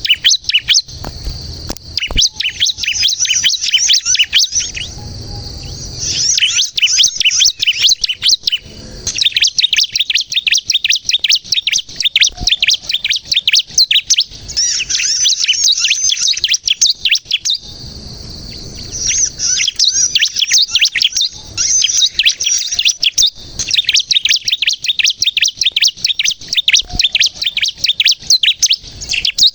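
Bar-winged prinia (ciblek kristal) singing nonstop in long runs of rapid, high chirps, broken by a few short pauses.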